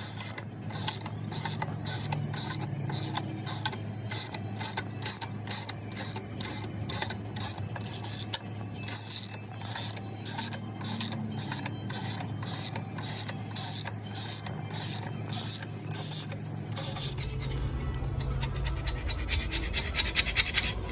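Hand ratchet wrench clicking in repeated strokes, about two to three a second, as engine bolts are worked loose. Near the end it gives way to a faster, continuous run of finer clicks, over a steady low hum.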